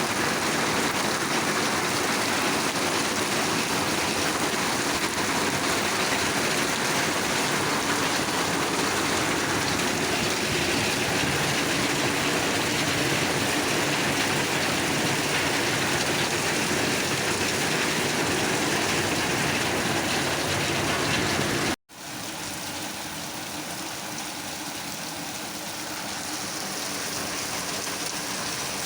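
Rain falling steadily. About three-quarters of the way through it cuts out for an instant and comes back somewhat quieter.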